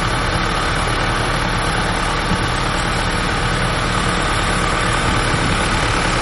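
A heavy engine idling steadily, a constant low hum with no change in speed.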